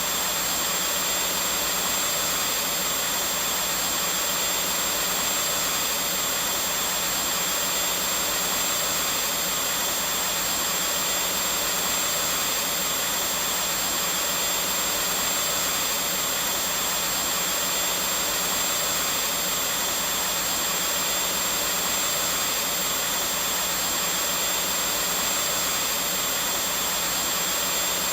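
Vacuum cleaner running steadily at an unchanging level: an even hiss with a thin, steady high whine on top.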